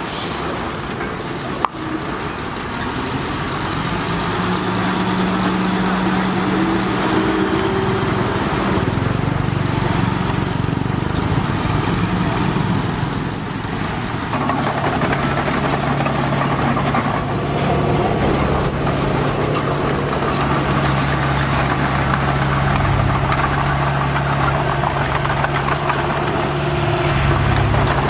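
Heavy diesel engine of earthmoving machinery running steadily, its pitch shifting a couple of times as it works. There is a single sharp click about two seconds in.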